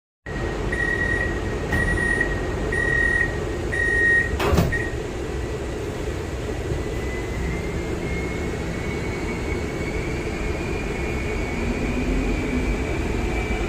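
Inside a Skoda Varsovia metro car: the door warning signal beeps four times about a second apart, the doors shut with a knock, and then the train pulls away, its traction motors giving a whine that rises slowly in pitch over the running rumble as it accelerates.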